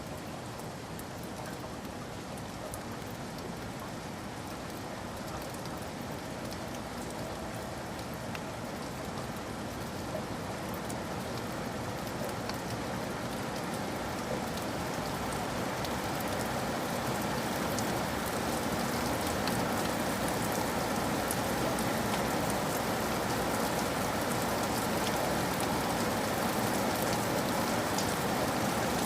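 Steady rain falling, an even hiss with scattered drop ticks on surfaces, growing gradually heavier and louder over the stretch.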